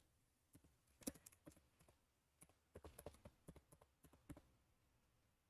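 Faint computer keyboard typing: scattered key clicks in short runs, stopping about four and a half seconds in.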